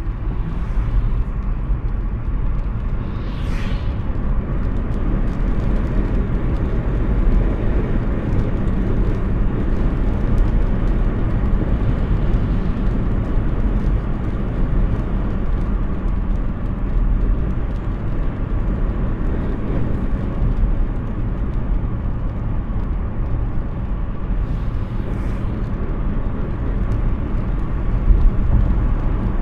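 Steady road and tyre noise of a Hyundai Ioniq 6 electric car driving, a low rumble with no engine note, with two brief hissing swishes, one a few seconds in and one near the end.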